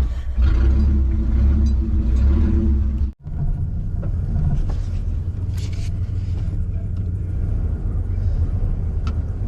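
Truck engine running, a loud low rumble that breaks off abruptly about three seconds in, then carries on as a steadier, plainer rumble.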